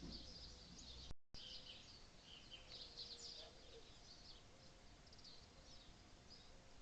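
Faint tropical forest ambience: a dense chorus of high, rapid chirps from birds and insects, with faint gliding calls lower down. The sound drops out briefly about a second in.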